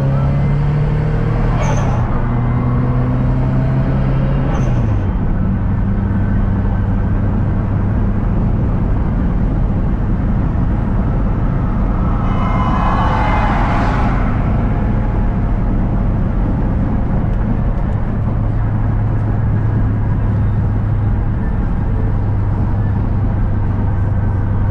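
Car engine heard from inside the cabin of a manual-transmission car accelerating through the gears: the engine pitch climbs and drops at gear changes about two and five seconds in, then holds a steady drone at cruising speed. A brief surge of noise with a whine comes about halfway through.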